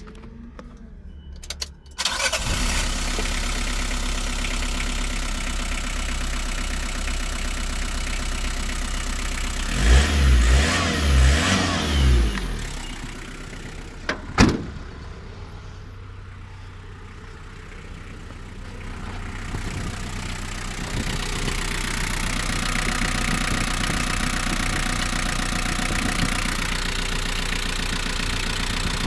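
Mitsubishi Delica's R2 diesel engine started about two seconds in, then running steadily. It is revved three times in quick succession near the middle, followed by a sharp click, drops quieter for a few seconds and then runs steadily again, as in an idle and mid-rev engine test.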